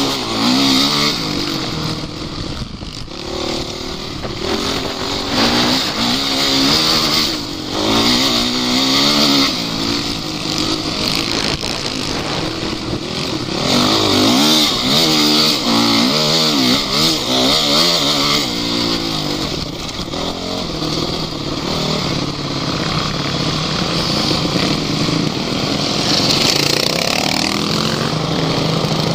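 An offroad vehicle's engine working hard, revving up and down again and again so its pitch rises and falls in waves, over a steady rushing noise.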